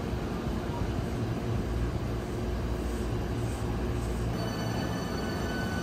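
Hankyu electric train running with a steady low rumble; about four seconds in, a steady high-pitched whine joins it.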